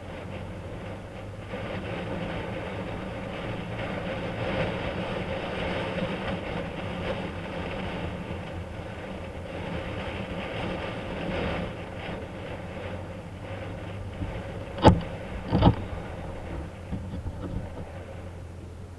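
Honda CB1000SF's inline-four engine running under way, with road and wind noise. It gets louder about a second and a half in. Two sharp knocks come close together about three-quarters of the way through.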